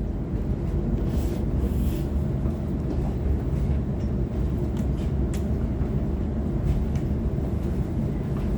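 Train rumbling steadily, a low even drone with a faint hum and a few light clicks.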